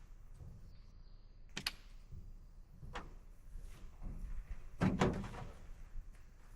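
A few separate knocks and thuds, one to two seconds apart, the loudest a double knock about five seconds in.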